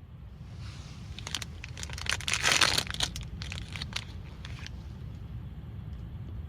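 Rustling and crinkling with a run of sharp clicks, loudest about two and a half seconds in, over a steady low rumble.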